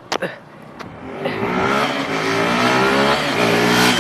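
Two short clicks, then a motorbike engine accelerating, its pitch rising steadily from about a second in and starting to climb again near the end.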